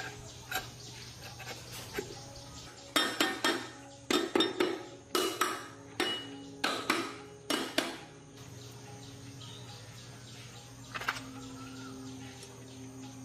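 Metal parts and tools clinking and knocking: a quick run of a dozen or so sharp, ringing strikes between about three and eight seconds in, then one more knock a few seconds later.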